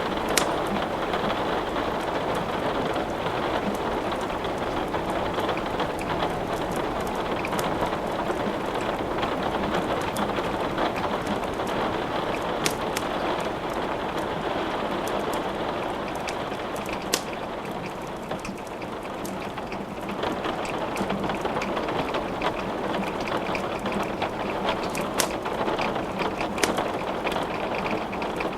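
Steady rain hiss mixed with a wood fire crackling in a fireplace, with a few sharp pops standing out over the rain.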